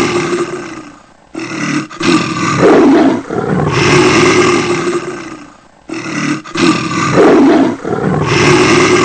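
Loud, rough animal roars, each about three to four seconds long, separated by short gaps and a brief shorter call, repeating in an even loop.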